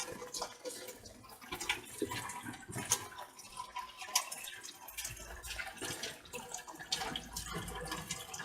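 Rain falling, with many irregular drips and patters of drops.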